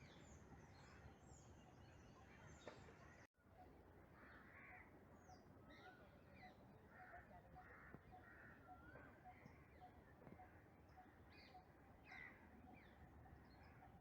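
Near silence with faint birds calling in the background: scattered short harsh calls and a softly repeated pip. The sound drops out for an instant about three seconds in.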